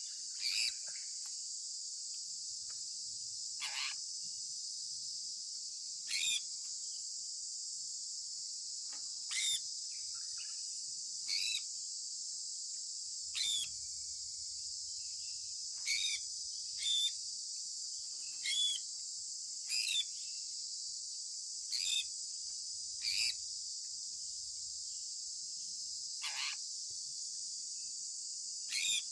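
Sun conure chirping: about a dozen short, sharp calls, one every one to three seconds, over a steady high-pitched insect chorus.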